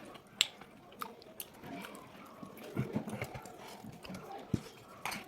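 A person chewing food with the mouth open, with irregular wet smacks and a few sharp clicks.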